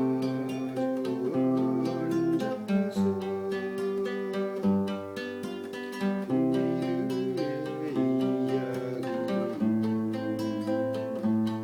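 Acoustic guitar strummed, playing a steady chord accompaniment with a sustained melody line over it.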